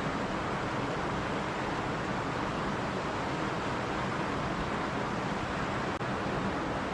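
Running stream water rushing steadily, an even hiss of flowing water, with a momentary dip in the sound about six seconds in.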